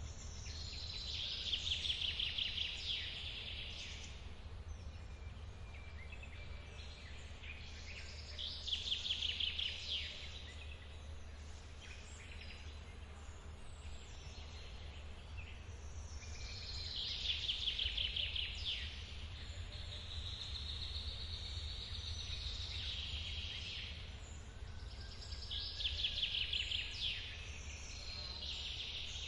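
A songbird singing a short, fast trilled song four times, about every eight seconds, each song lasting about two seconds. Underneath runs a steady low rumble.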